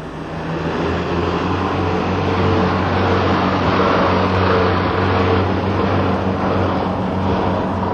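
A vehicle engine running steadily: a low, even drone with a broad noise over it, fading in over about the first second.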